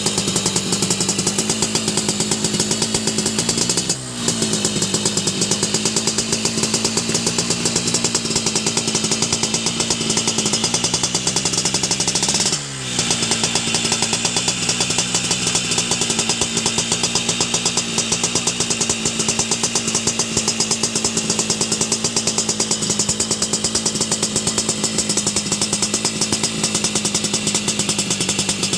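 Yamaha RX-King's two-stroke single-cylinder engine running steadily through an aftermarket racing exhaust, with a fast, even pulsing. The sound dips briefly and swoops in pitch twice, about four seconds in and again about twelve and a half seconds in.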